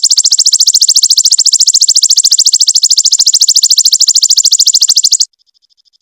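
Perenjak (prinia) singing its rapid-fire 'tembakan' trill: a loud, very fast string of high repeated notes that cuts off abruptly about five seconds in, leaving a much fainter trill.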